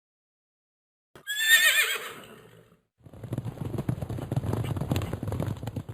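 A horse whinnies once, with a wavering high call about a second in. From about halfway through it is followed by rapid hoofbeats.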